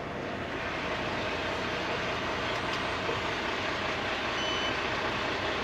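Semi-truck engine running steadily, heard from inside the cab while stopped at a toll booth, with a brief high electronic beep about four and a half seconds in.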